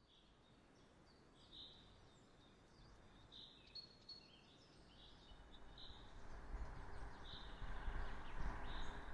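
Outdoor ambience: small birds chirping in short, high, repeated calls, over a low rushing background noise that swells steadily louder through the second half.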